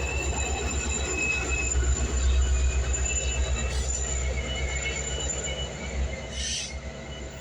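Metra commuter train coming in for a station stop: steady high wheel squeal over a low rumble, both fading as it slows. A short hiss comes about six and a half seconds in.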